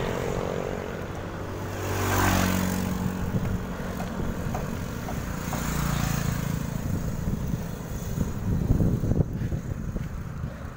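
Motor vehicle engines running on the road, with a vehicle passing close by about two seconds in. Wind buffets the microphone.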